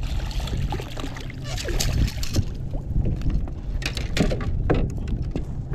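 Hooked largemouth bass splashing at the surface right beside the boat, in a run of irregular sharp splashes, over a steady low rumble of wind on the microphone.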